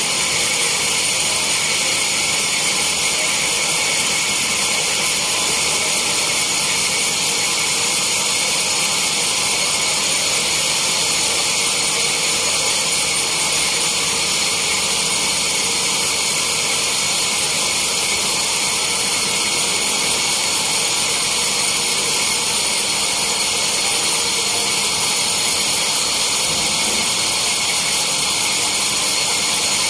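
Sawmill saw running steadily on teak, a loud, unbroken high whine with hiss.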